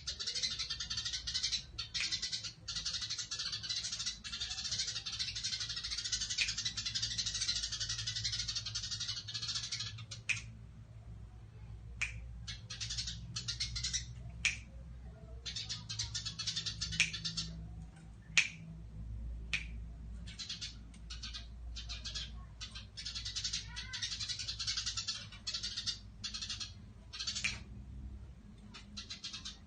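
Eurasian tree sparrow chirping in a rapid, unbroken rolling chatter for about the first ten seconds, then in shorter broken bursts punctuated by sharp single chirps.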